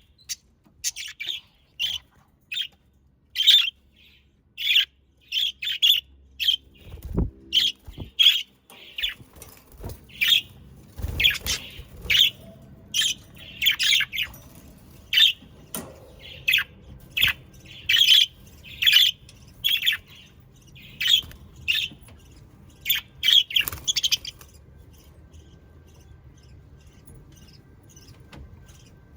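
Budgerigars (Australian parakeets) calling: rapid short chirps and squawks one after another, with a couple of soft low thuds among them. The calls drop off sharply about three quarters of the way through, leaving only faint sparse chirps.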